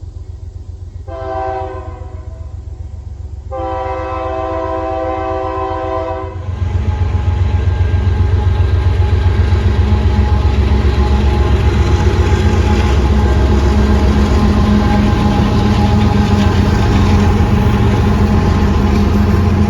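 Union Pacific diesel locomotive sounding its horn over the low rumble of its engine: a short blast about a second in and a longer one from about three and a half seconds. Once the horn stops, the train passes close with a much louder, steady rumble of engine and wheels on the rails.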